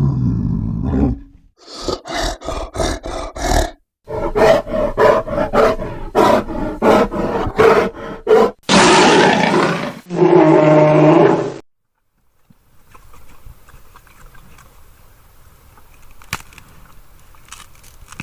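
Grizzly bear vocalizations: a deep roar, then runs of rapid, pulsing growls, a harsh roar and a short pitched growl, joined by abrupt cuts. The calls stop suddenly about two-thirds of the way through, leaving only faint background with a few clicks.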